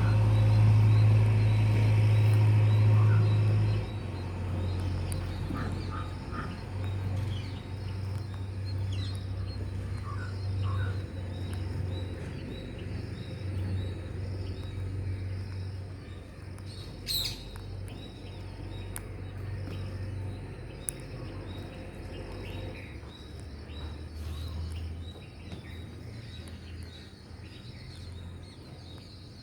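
Parrots calling now and then with short chirps and squawks, and one brief shrill screech about halfway through. Under the calls runs a low rumble that is loudest for the first few seconds, then weakens.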